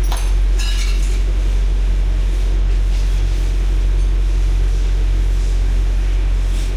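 Car engine idling, a steady low hum, with a short burst of clicking and rattling in the first second.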